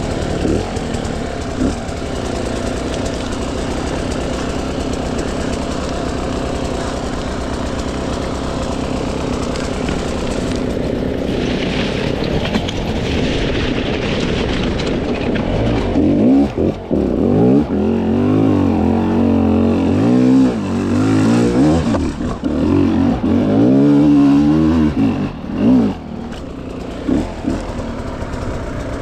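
300cc two-stroke dirt bike engine pulling steadily at low revs, then from about 16 seconds in revved up and dropped back again and again in sharp throttle blips, with a few brief dips where the throttle is chopped.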